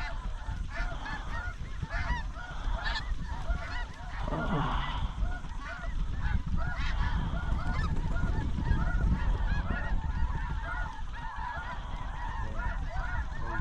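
A large flock of snow geese calling, many short high honks overlapping in a constant chorus over a steady low rumble.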